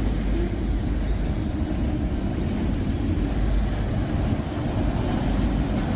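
Freight train cars rolling past at speed, a steady low rumble mixed with heavy wind buffeting on the microphone.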